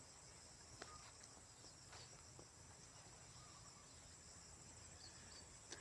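Near silence apart from a faint, steady, high-pitched insect chorus, with a couple of faint clicks.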